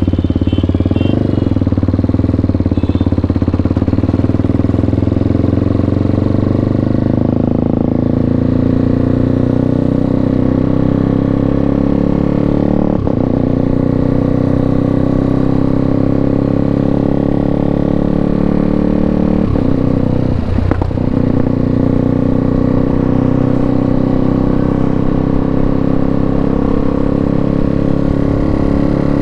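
KTM RC 390 single-cylinder engine running through a full Akrapovic exhaust while riding, its pitch drifting slowly up and down. The sound breaks briefly about halfway through and again about two-thirds of the way through.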